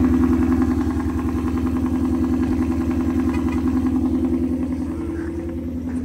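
Ford Mustang GT's 5.0-litre V8 running at a steady pace, gradually getting quieter.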